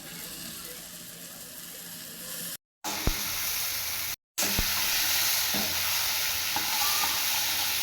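Spiced chickpeas sizzling and frying in a pan as they are stirred, with a couple of sharp clicks of the utensil against the pan. The sizzle drops out twice for a moment, and after the second break it is louder.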